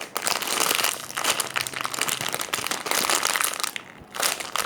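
Crinkling and rustling as a jumbo apple squishy toy is handled and squeezed, dense and crackly, with a short lull about four seconds in.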